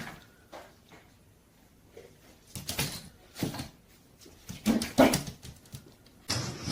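A dog making several short vocal sounds, a second or so apart, after about two seconds of quiet.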